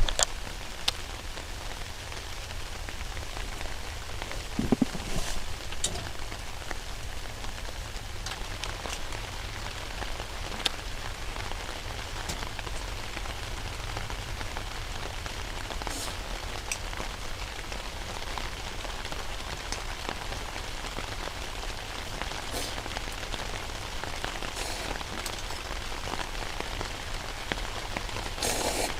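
Wood fire crackling: a steady hiss with scattered sharp snaps and pops.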